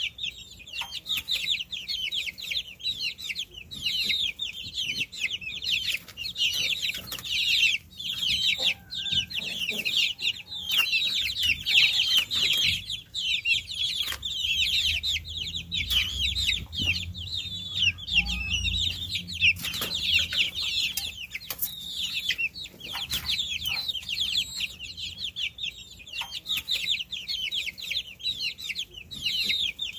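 A brood of baby chicks peeping nonstop: many high, short, downward-falling chirps overlapping into a dense chorus. A low rumble runs underneath from about fifteen to nineteen seconds in.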